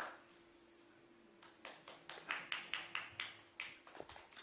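Scattered hand claps from a small audience, starting about a second and a half in and coming irregularly, a few at a time.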